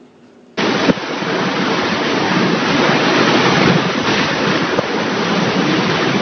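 Strong storm wind blasting the microphone as a loud, continuous rush of noise that starts suddenly about half a second in.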